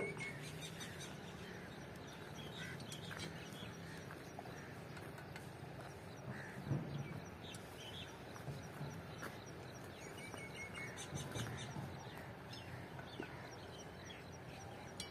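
Birds chirping and calling faintly here and there over a low steady background hum.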